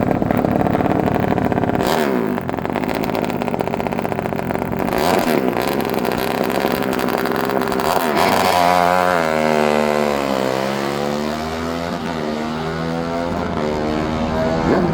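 Motorcycle engines running and revving. In the second half, one engine's pitch drops and then climbs again.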